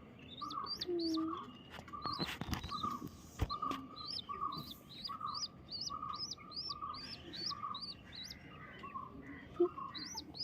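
A bird chirping over and over, a short high chirp about twice a second, alternating with a lower note. A brief rustle and a click come about two to three seconds in.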